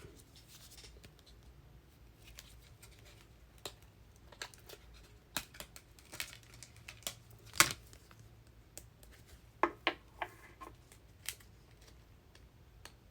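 Trading cards being handled and sorted, with scattered soft clicks and scrapes of card stock; one sharper click comes a little past halfway.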